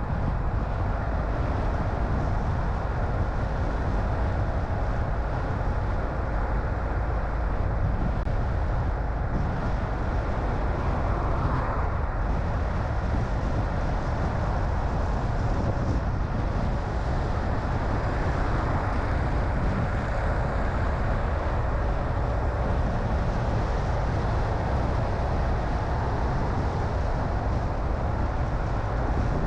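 A car driving: a steady low rumble of engine and tyre noise, with a faint whine that drifts slowly in pitch.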